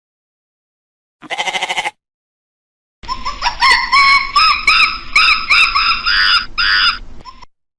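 A goat bleats once, a short trembling call. From about three seconds in comes a quick run of high chirping calls with sharp clicks between them, which stops shortly before the end.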